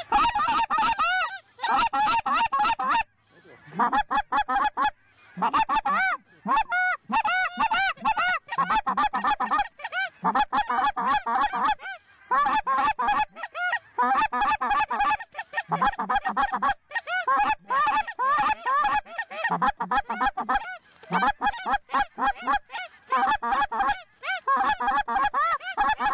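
Canada geese honking and clucking in rapid, overlapping strings, loud and nearly continuous with a few short breaks.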